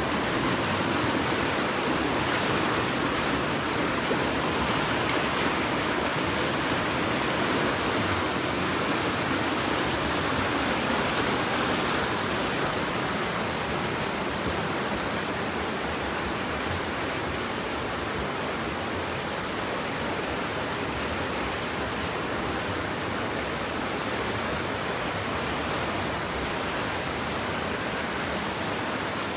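Steady rushing water, an even unbroken hiss and rumble like a waterfall or fast stream, easing a little in loudness partway through.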